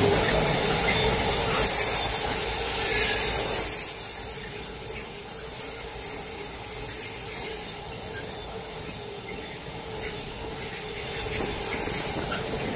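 Container wagons of a long freight train rolling past on the rails: a steady rumble and hiss of wheels with a held hum. It is louder for the first four seconds, then settles lower as the wagons keep passing.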